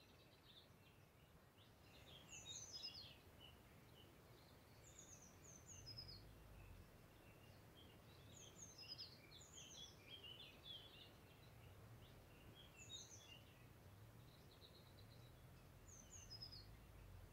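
Faint distant birdsong: a songbird repeating short phrases of quick, falling chirps every two or three seconds, over a faint low background rumble.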